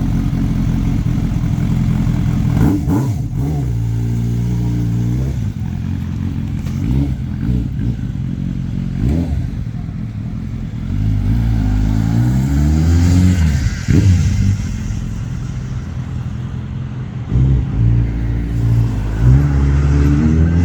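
Kawasaki 1000 cc motorcycle engine running just after starting, blipped up and down about a dozen times between idles, the revs rising and falling with each blip.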